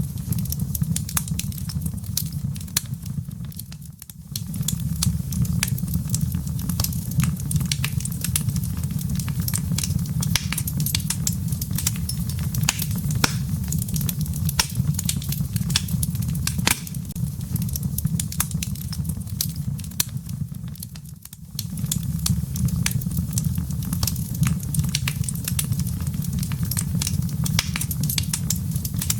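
Wood logs burning in a fireplace: a steady low rumble of flame with frequent sharp crackles and pops from the burning wood. The sound dips briefly twice, about four seconds in and again near twenty-one seconds.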